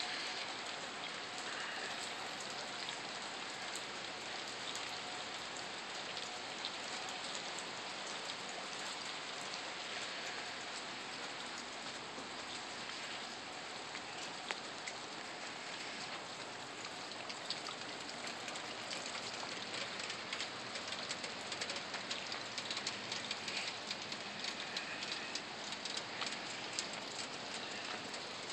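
Steady rain falling on wet ground, pavement and standing floodwater, an even hiss full of small drop ticks that grow busier in the second half.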